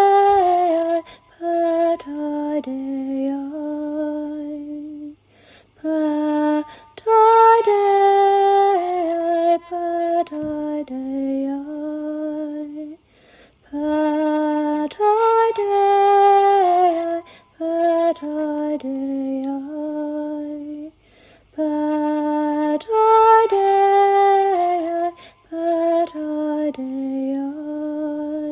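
A woman singing slow, drawn-out, lullaby-like phrases in a sacred healing chant. The phrases come in a repeating pattern of about eight seconds, with a short breath pause between each.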